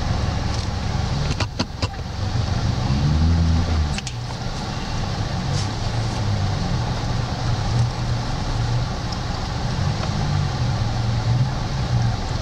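Off-road vehicle engine idling steadily, with one brief rev that rises and falls about three seconds in. A few sharp clicks sound about a second and a half in.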